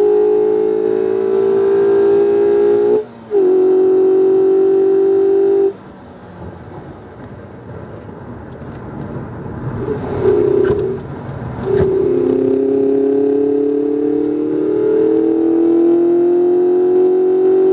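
The 2019 Mazda MX-5 RF's four-cylinder engine, heard from inside the cabin at high revs on track as a steady, high-pitched note. It dips briefly about three seconds in, then drops away about six seconds in as the driver lifts off for a corner, with a short rev blip near the middle. It comes back on the throttle about twelve seconds in and rises in pitch as the car accelerates.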